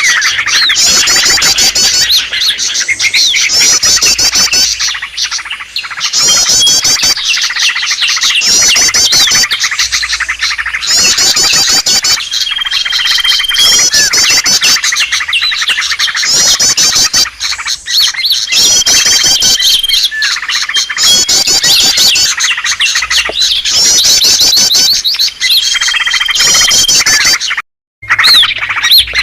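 Bird-lure recording of small songbirds chirping in dense, rapid runs of high notes, with a long steady whistle note that recurs about every seven seconds. The sound cuts out briefly near the end.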